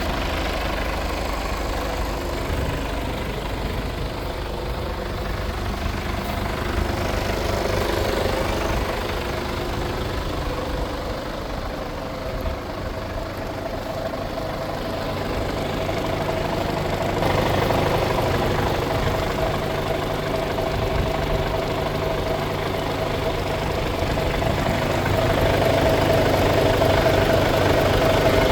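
Mercedes-Benz Actros 1843 truck's diesel engine idling steadily, getting somewhat louder about two-thirds of the way through and again near the end.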